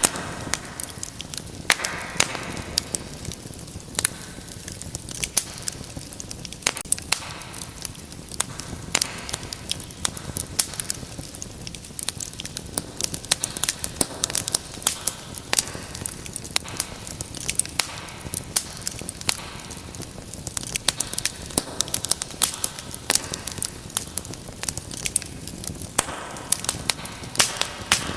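Wood fire in a fireplace crackling: irregular sharp pops and snaps over a soft hiss of the flames that swells and fades every few seconds.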